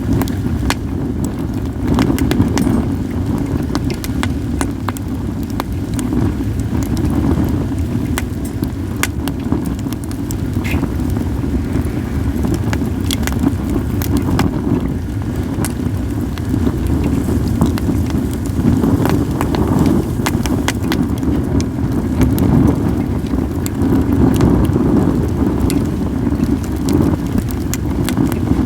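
Wood fire of acacia and mixed firewood burning, crackling with frequent sharp pops over a steady low rumble.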